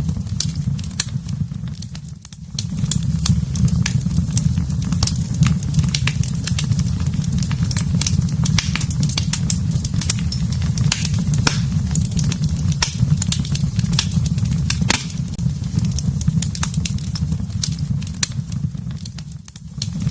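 Wood fire burning in a fireplace: a steady low rumble of flames with frequent sharp crackles and pops from the burning wood. The sound dips briefly about two seconds in and again near the end.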